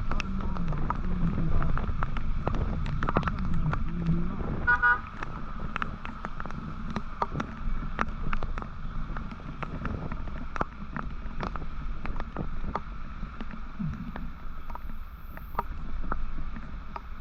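Vehicle riding through city traffic: a steady engine rumble and rushing wind noise, with many sharp clicks and knocks throughout. A brief rapid pulsing tone comes about five seconds in.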